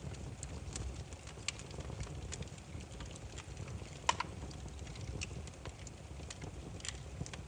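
Firewood fire crackling: irregular small pops and snaps over a low steady rumble, with one sharper, louder pop about four seconds in.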